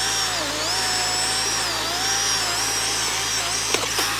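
Two-stroke chainsaw cutting at full throttle, its pitch dipping and recovering repeatedly as the chain bogs in the wood, with a couple of sharp cracks near the end.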